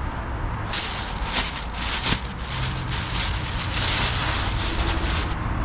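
A loud hiss starting suddenly under a second in and cutting off near the end, with a few clicks in it, over the steady low hum of a running engine.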